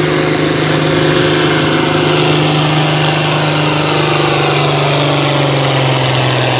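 Farm-stock pulling tractor's diesel engine running loud and steady at a held pitch, typical of a tractor pulling the sled in one gear. The pitch sags slightly near the end.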